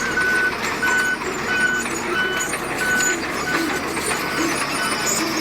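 A heavy construction vehicle's back-up alarm beeping steadily, about one and a half beeps a second, over the running diesel engine; the beeps fade near the end.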